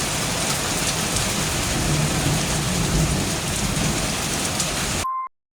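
Heavy rain and hail pelting down in a dense, steady downpour. It cuts off abruptly about five seconds in, and a short beep follows.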